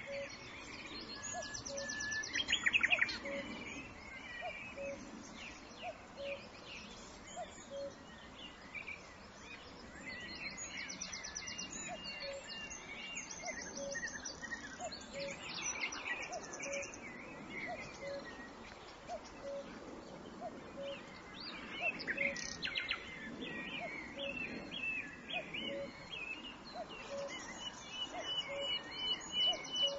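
Several birds chirping and singing, with a few rapid high trills, over a soft outdoor hiss. Under them a short low note repeats evenly, about once every three-quarters of a second.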